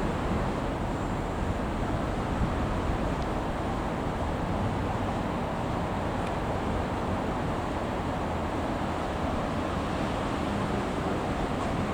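Steady rumble and hiss of trackside rail traffic, even throughout with no distinct clatter or horn.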